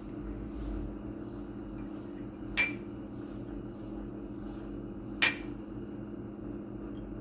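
Two sharp clinks, about two and a half seconds apart, of a utensil striking a pan or dish, each ringing briefly, over a steady low hum.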